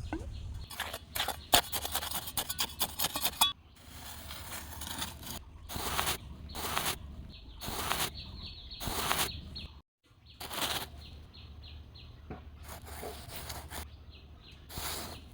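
Mini model chaff cutter running, a small motor humming steadily underneath. Over it come a dense patter of clicks in the first few seconds, then separate scraping bursts about once a second, as grass goes through the cutter.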